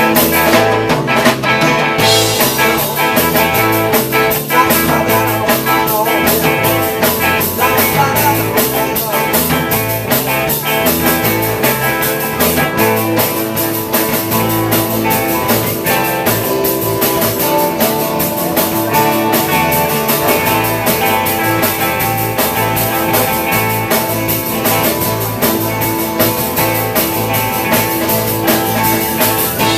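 A rock band jamming on an instrumental passage, with guitar over a steady drum kit beat and a repeating bass line.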